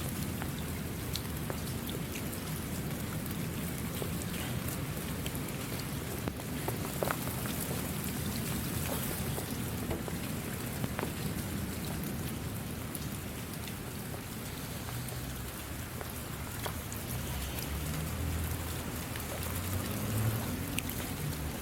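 Steady rain falling, a continuous hiss with individual drops ticking here and there. A low rumble swells in the background near the end.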